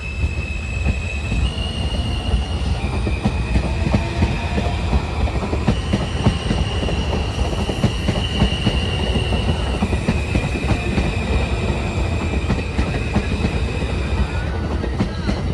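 New York City subway M train running on the rails: a heavy rumble with a run of wheel knocks, and over it a high steady whine that jumps in pitch several times and fades out near the end.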